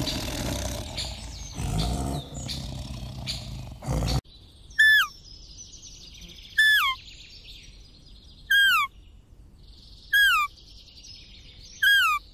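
A bird call: a clear whistled note sliding downward, repeated five times about every two seconds over a faint high chirring. Before it, the first four seconds hold a rough, noisy outdoor ambience that cuts off sharply.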